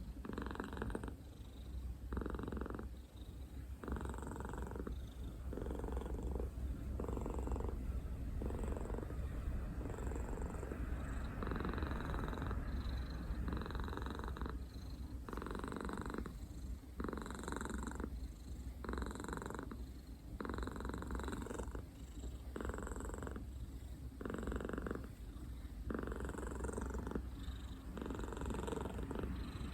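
A 14-year-old cat purring close up, a steady low rumble that swells and dips with each breath about once a second.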